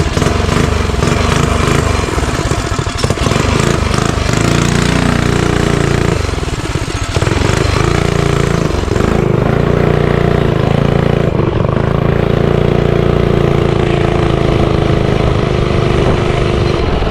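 Motovox mini bike's small single-cylinder four-stroke engine running, its pitch dipping and rising again several times with the throttle, then holding steady near the end.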